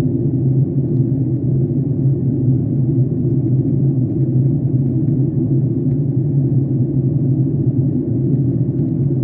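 Steady low drone of an airliner cabin in flight: jet engine and airflow noise heard from inside the cabin.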